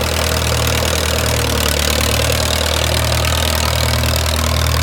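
Allis-Chalmers WD tractor's four-cylinder engine idling steadily at an even speed.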